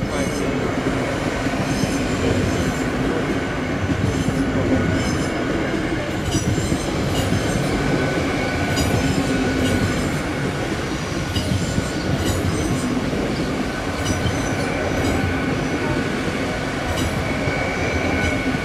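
GWR passenger train running past over a level crossing: steady wheel-on-rail noise with repeated clicks of the wheels and a faint, steady high whine.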